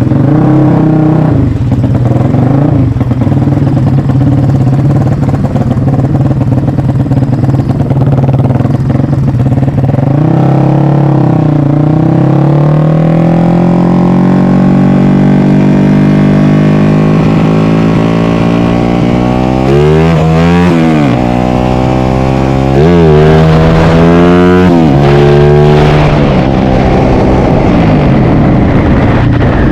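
Yamaha MX King single-cylinder four-stroke motorcycle engine, bored out to 300cc, running loud through its exhaust. Its pitch climbs slowly for several seconds as it accelerates, then it is revved up sharply and let fall three times about two-thirds of the way through before settling back to a steady run.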